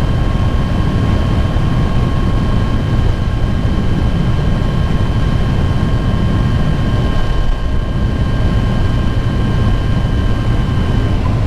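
Motorcycle riding at a steady pace: a loud, steady rumble of engine and wind, with a thin steady whine over it that cuts off near the end.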